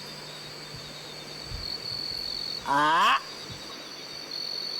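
A man calling monkeys with an imitated animal call: one short call sweeping sharply upward in pitch about three seconds in. A steady high insect buzz runs underneath.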